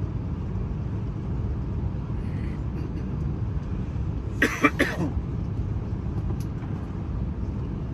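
Steady low cabin rumble inside an Airbus A321neo airliner on the ground, the drone of engines and air conditioning, with a short burst of a nearby voice about halfway through.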